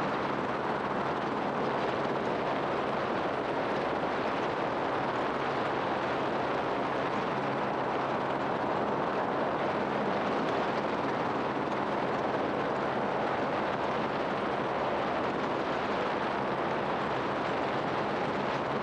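Helicopter in flight: a steady drone of engine and rotor with rushing air and a low hum that does not change.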